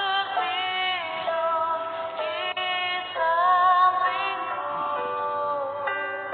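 A woman singing a slow melody over backing music, holding long notes with vibrato; the loudest, longest wavering note comes about halfway through. The sound is dull and narrow, with no high treble.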